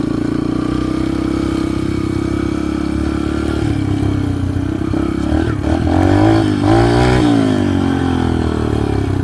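Dirt bike engine running steadily, then revved up and down a few times from about five and a half to seven and a half seconds in.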